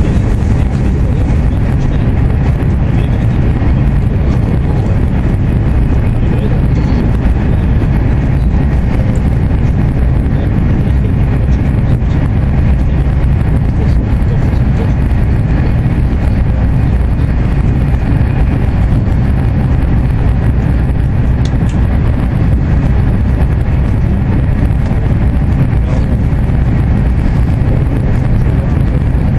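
Steady low rumble inside the passenger car of an AVE high-speed train running at high speed.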